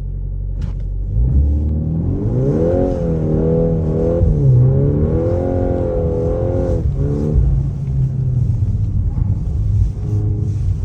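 Volkswagen Golf R (Mk8.5) turbocharged four-cylinder engine and exhaust under acceleration: the engine note climbs about two seconds in, rises and falls with the revs for several seconds, then settles to a lower, steadier note.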